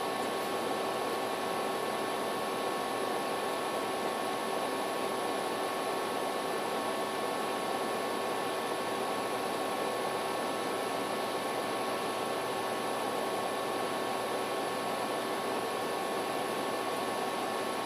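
Steady background hiss with a faint, even electrical hum, unchanging throughout.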